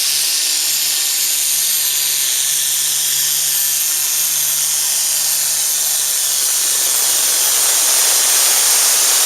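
Turbocharged diesel pulling tractor running flat out, its turbocharger giving a loud, steady high-pitched hiss and scream with a faint falling whine.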